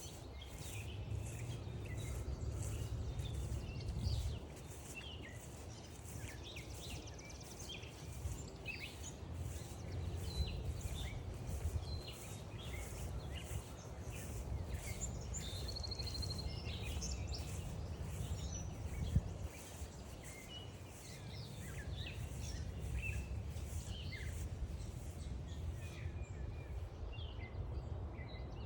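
Birds calling and singing, many short calls from several species overlapping, over a low rumble that rises and falls. A faint regular ticking, a bit over one a second, runs under it and stops near the end.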